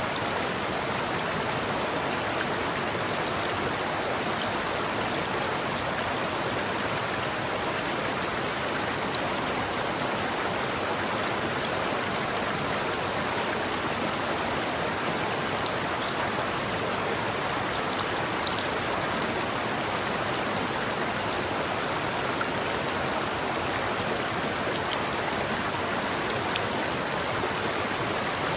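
River water flowing steadily over rocks, an even, continuous rushing.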